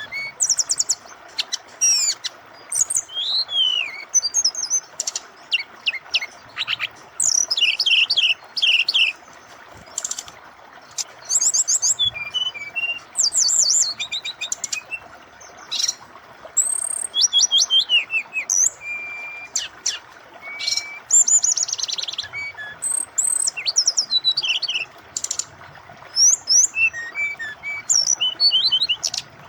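Brown-chested jungle flycatcher singing a busy run of rapid chirps, whistled glides and trills, phrase after phrase, over the steady hiss of running water.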